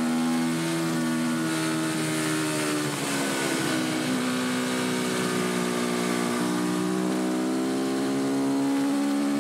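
KTM RC390's single-cylinder four-stroke engine running hard on track. About three seconds in it eases off, its pitch falling and briefly breaking up, then it pulls again with a slowly rising pitch. Wind rushes over the bike throughout.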